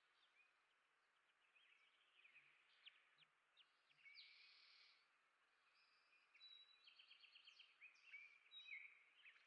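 Faint songbird chirps and a jumbled warbling song, including a quick trill of repeated notes about seven to eight seconds in, over faint hiss.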